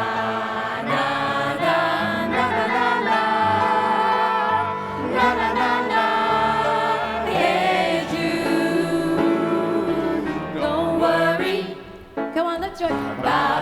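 A group of singers performing live with piano accompaniment, several voices together holding and sliding between notes. The sound dips briefly near the end before the singing comes back in.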